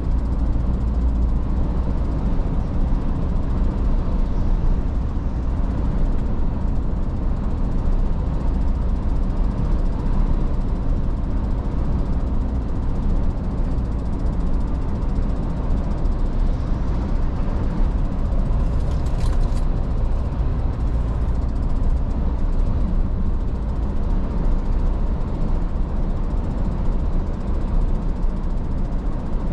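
Iveco S-Way truck running steadily on the road, a constant low engine and road rumble. About two-thirds of the way through there is one brief, sharp noise.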